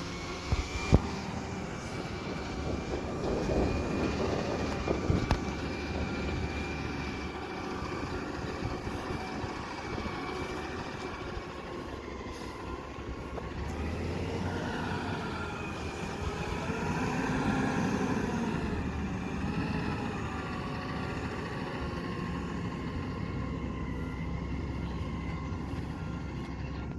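Garbage truck running, with a steady high whine over the engine and a few sharp knocks about a second in. The engine sound swells and shifts in pitch around the middle, then settles.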